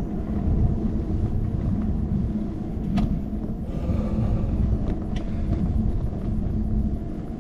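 Steady low rumble of wind and road vibration on a handlebar-mounted GoPro as a bicycle rides along, with a few sharp clicks or rattles about three and five seconds in.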